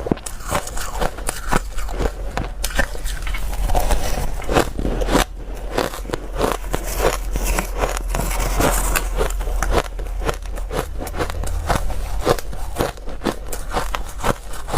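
Close-miked chewing of crunchy ice: a fast, irregular run of crisp crunches and crackles, bite after bite.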